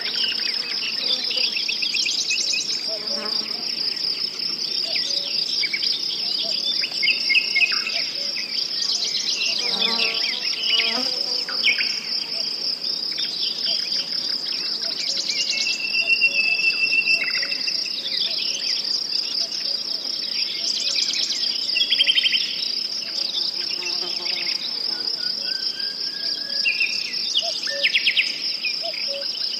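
Insects chirring in a steady, unbroken high trill, with several birds calling and whistling over it in short, scattered phrases.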